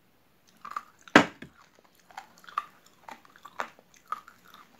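Raw uncooked rice being chewed with crisp crunching cracks, roughly two a second. One loud knock about a second in.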